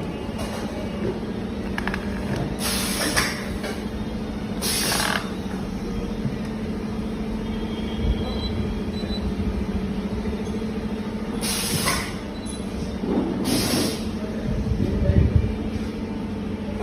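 A steady mechanical hum with four short bursts of hiss, about 3, 5, 12 and 14 seconds in.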